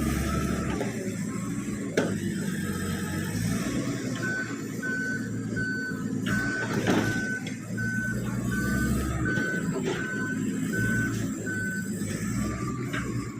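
Komatsu D85PX bulldozer's diesel engine running, with its reversing alarm beeping about one and a half times a second from about four seconds in until near the end. Two sharp knocks stand out, about two and seven seconds in.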